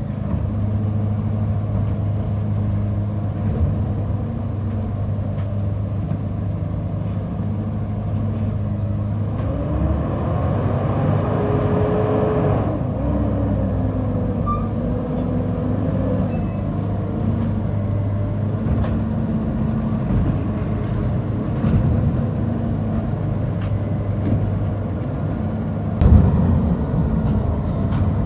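Garbage truck's engine running steadily, its revs rising for a few seconds about ten seconds in, with a sharp knock near the end.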